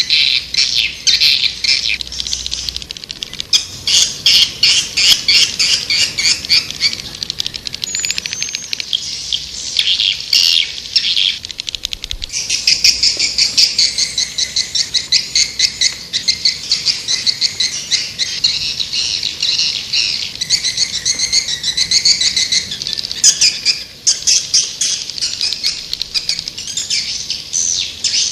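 Recorded calls of white-nest swiftlets: dense, rapid trains of high twittering chirps, overlapping and continuous. This is a swiftlet lure call, played to draw the birds into a nesting house.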